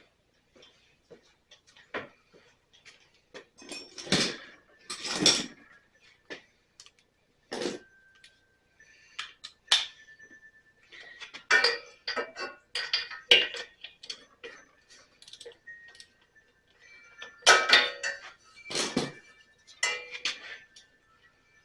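Metal hand tools clinking and knocking against each other and the engine while a spark plug is taken out, in several clusters of sharp clinks, some with a brief metallic ring.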